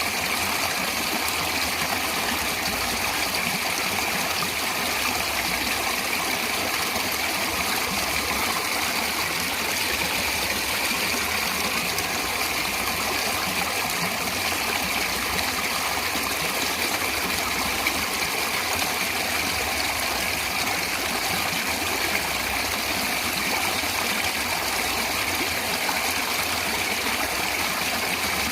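Steady rushing and splashing of a natural stream of water.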